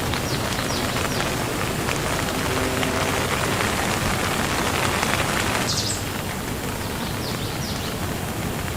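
Steady rain falling, an even hiss of drops, with a few short faint high chirps near the start and again near the end. The rain gets slightly quieter about six seconds in.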